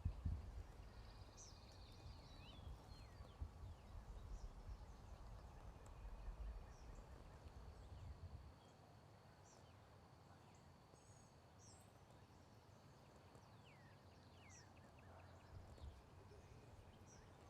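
Near silence with faint songbird chirps and whistles here and there, over a low rumble that drops away about halfway through.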